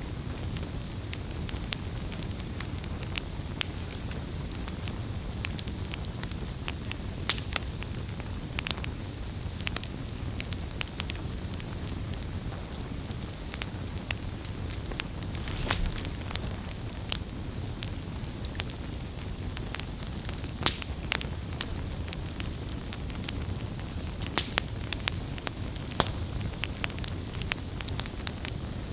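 Wood campfire burning, with a steady low rumble and hiss under frequent sharp, irregular pops and crackles.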